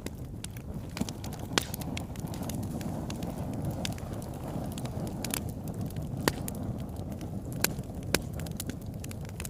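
Fireplace fire crackling: a steady low rush of burning with frequent sharp pops and snaps, a few louder ones scattered through.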